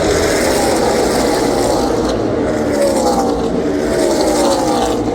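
A pack of stock cars racing past at speed, several engines sounding at once, their pitch sliding down as they go by.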